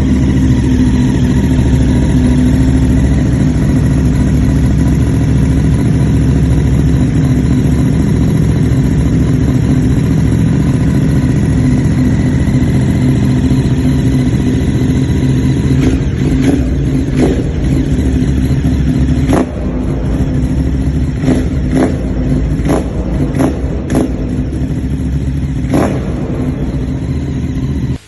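2022 Ducati Monster's 937 cc Testastretta V-twin idling through a Termignoni exhaust. In the second half, a run of short, sharp cracks sits over the steady idle.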